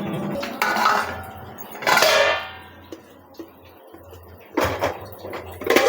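Kitchen clatter: metal pots and utensils ringing and scraping on the stove, one ring falling in pitch about two seconds in, then two sharp knocks near the end.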